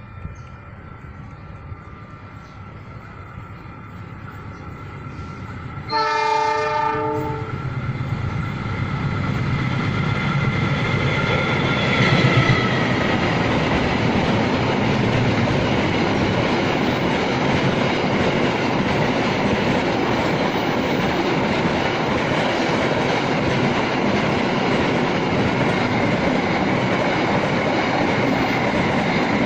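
A locomotive horn sounds once, for about a second and a half, about six seconds in. A long mixed freight train then runs past close by, its wagons' wheels sounding steadily over the rails.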